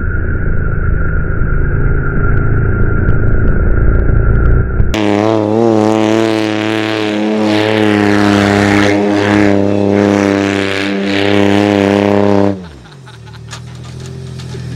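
Supercharged L67 3.8-litre V6 engine held at high revs while the van spins donuts in the dirt, at first muffled with a steady whistle through a camera mounted on the van, then heard clearly and loud from beside it about five seconds in. Near the end the revs drop away sharply to a low idle, and the sound then begins to build again.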